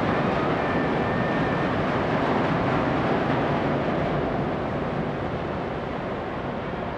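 The departing ferry Ogasawara Maru under way: a steady noise of engines and churning propeller wash that slowly fades.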